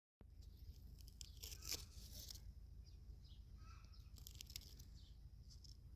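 Near silence: a faint low background rumble with a few soft crackles about one and a half to two and a half seconds in.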